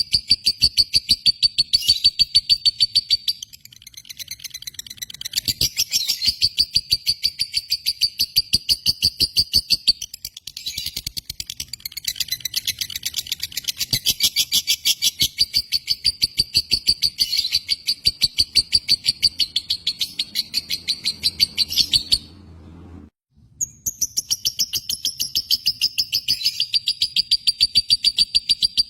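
Lovebird chattering in a long run of rapid, high-pitched chirps. It dips briefly a few times and breaks off completely for about a second and a half near the end before starting again.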